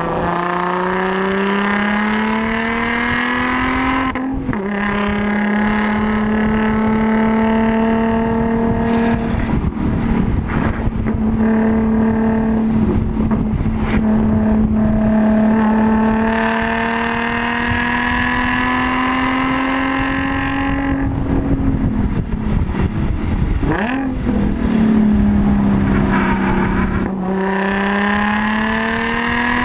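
Audi S4's supercharged 3.0-litre V6, with a Magnusson supercharger and AWE Touring exhaust, heard from inside the cabin under hard acceleration on track. The revs climb, drop sharply at an upshift about four seconds in, then pull up slowly for a long stretch. Near the two-thirds mark the engine eases off with a brief dip and jump in revs, then it climbs again near the end, all over steady wind and road noise.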